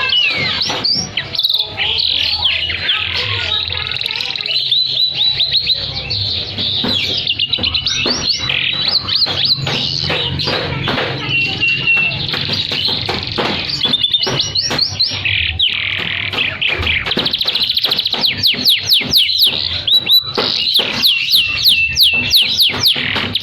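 Domestic canary in full, non-stop song: rapid trills and chirps mixing high and low phrases, with runs of quick repeated downward-sweeping notes in the second half.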